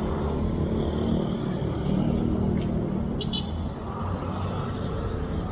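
Street traffic: motor vehicle engines running steadily in a low rumble, with a couple of short high clicks about two and a half and three seconds in.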